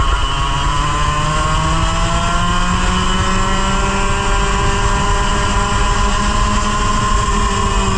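100cc two-stroke kart engine at full throttle, heard from onboard the kart; its pitch climbs slowly as the revs build, then levels off near the end.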